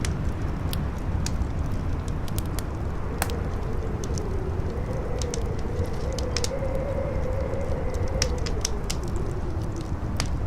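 Campfire crackling with scattered sharp pops over strong wind. The wind howls in a wavering tone that rises and falls, over a steady low rumble.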